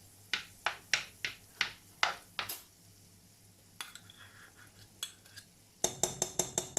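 Utensils knocking and clinking against a pan while butter goes in to melt for a roux. A row of sharp clicks, about three a second, runs for the first two and a half seconds, then a quick clatter of metallic clinks comes near the end.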